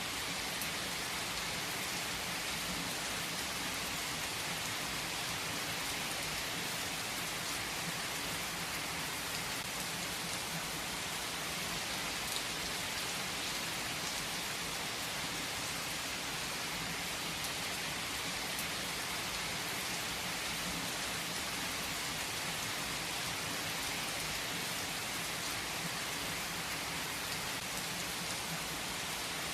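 Steady rain falling, an even hiss of drops on a surface with occasional single drops ticking through.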